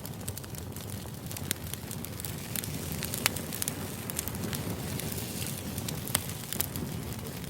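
Background white-noise ambience: a steady rumbling hiss with many irregular sharp crackles and pops scattered through it. The loudest pop comes a little after three seconds in.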